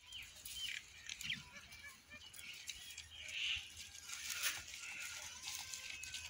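Small birds chirping in short, quick calls, with scattered light clicks and leaf rustling as goats browse on a leafy shrub.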